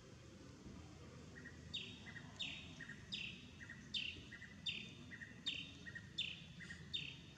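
A bird calling over and over, starting about a second and a half in: a short lower note followed by a sharp, falling higher note, repeated about every three-quarters of a second.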